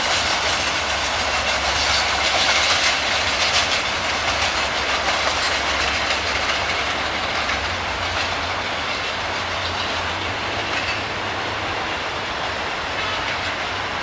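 Rangpur Express passenger train running at full speed, the noise of its wheels and carriages on the track, loudest about two to four seconds in and easing slightly after.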